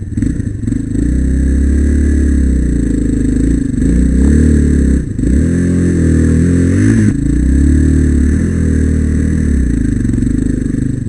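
Single-cylinder four-stroke trail motorcycle engine running under way, its pitch rising and falling several times as the throttle is opened and closed.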